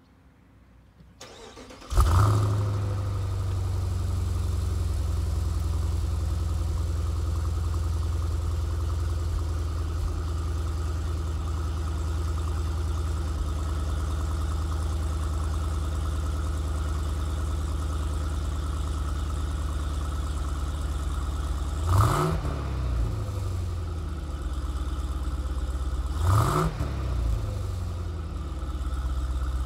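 Jeep Grand Cherokee Trackhawk's supercharged 6.2-litre Hemi V8 being started through its quad-tip exhaust. The starter cranks briefly, the engine catches with a loud rev flare about two seconds in, and then it settles into a steady idle. Near the end it is blipped twice, each rev rising and falling quickly.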